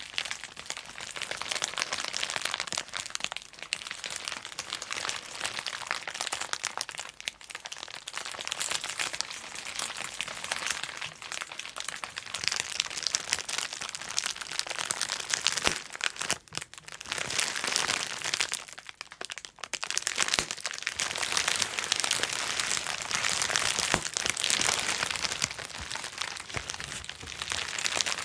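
Bubble wrap being handled and popped: a dense run of small pops and crackles mixed with the crinkle of the plastic sheet, with brief lulls about two-thirds of the way through.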